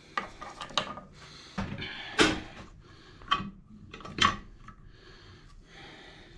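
Engine parts and tools being handled on a workbench during a small engine teardown: a string of sharp knocks and clunks at uneven intervals, the loudest about two seconds in, with quieter rubbing and shuffling between them.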